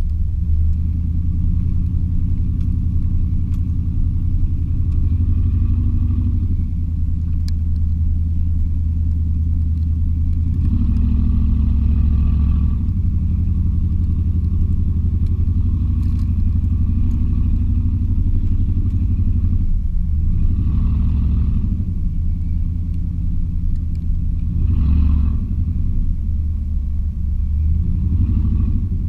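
Chevy 350 V8 in an '86 K20 pickup running under way: a steady low drone that swells with throttle several times, about ten seconds in, around twenty seconds, and near the end.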